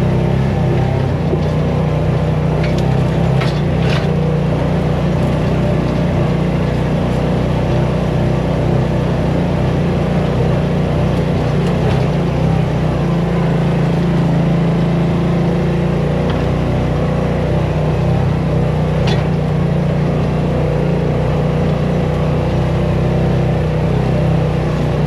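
A vehicle engine running at a steady speed while driving over rough ground, with a few sharp clicks or knocks in the first few seconds and again later.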